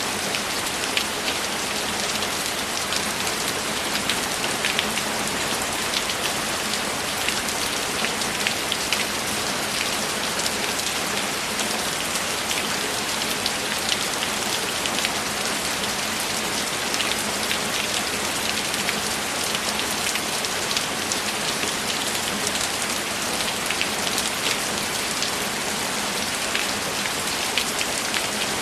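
Steady rain: a dense, even hiss with many small, sharp drop ticks scattered through it.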